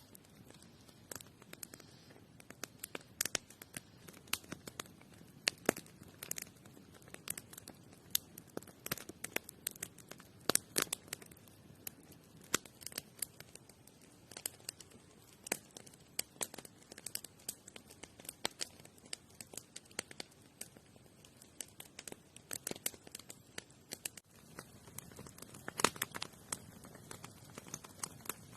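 Irregular sharp crackles and rustling: scattered clicks at uneven intervals, some louder than others, over a faint steady background.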